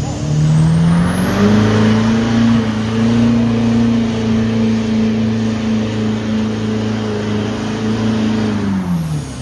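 Truck engine revving up and held at high revs for about seven seconds, with a high whine over it, while the truck does a burnout. The revs fall away near the end.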